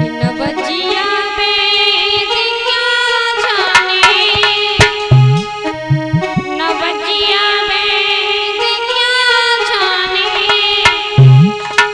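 Indian folk singing with a wavering voice over steady harmonium tones, with a few low drum strokes.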